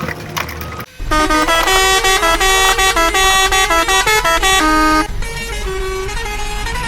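A loud electronic melody of buzzy, stepped tones, starting after a brief dip about a second in and dropping to a quieter continuing tune about five seconds in.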